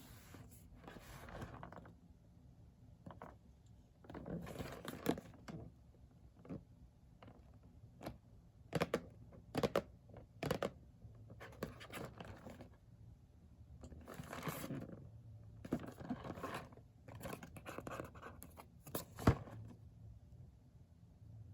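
A doll's packaging being handled and opened by hand: irregular scratching and scraping, with a few sharp clicks, the loudest near the end.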